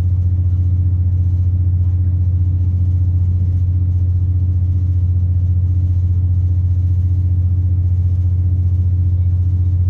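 Underfloor MTU turbo diesel engine of a Class 170 Turbostar diesel multiple unit running steadily, a constant low drone heard from inside the carriage.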